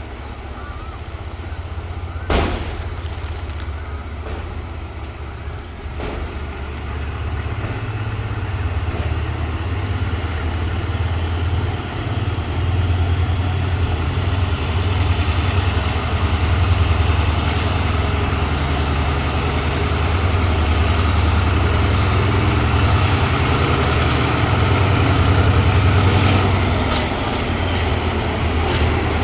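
Diesel locomotive engine running with a steady low rumble that grows louder through the first half, with a sharp knock about two seconds in.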